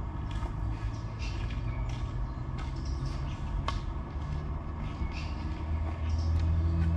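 A motor vehicle's engine running with a steady low hum that grows louder in the last second or so, with light scattered clicks.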